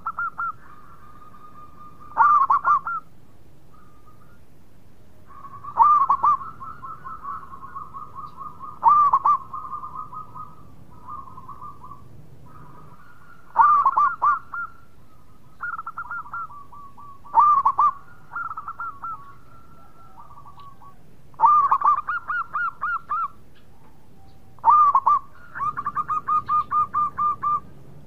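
Zebra doves (perkutut) singing: cooing phrases that each open with a loud note and run into a quick string of rolling coos, repeated about every three to four seconds, some calls overlapping one another.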